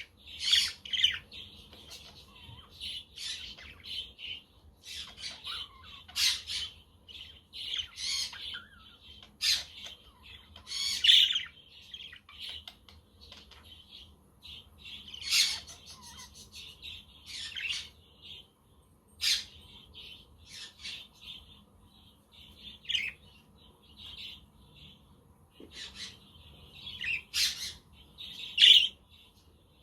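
Budgerigars chirping and chattering in short bursts, with frequent sharp high calls every second or so.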